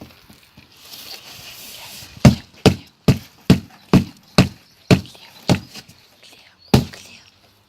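Nine sharp blows, about two a second, on a cardboard box being broken apart, after a second or so of rustling. The blows slow slightly toward the end.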